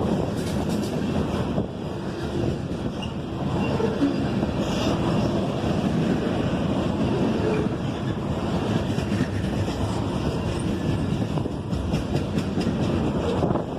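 Freight train cars rolling past, with a steady noise of wheels on rail.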